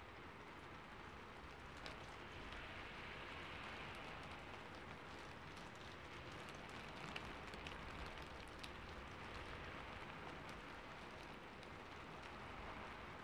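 Recorded rain falling on a rooftop: a steady soft hiss of rain with scattered individual drops ticking.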